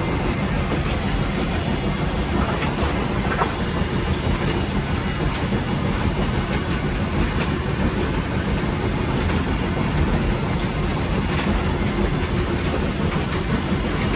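Nevada Northern No. 81 steam locomotive running steadily, heard from inside its cab: a loud, even mechanical and rail noise without a break.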